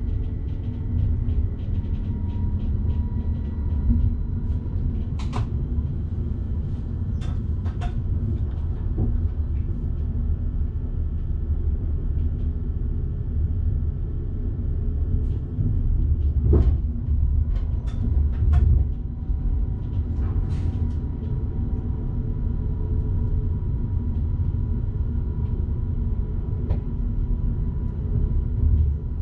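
Passenger train running along the track, heard from inside the driver's cab: a steady low rumble with scattered sharp clicks and knocks.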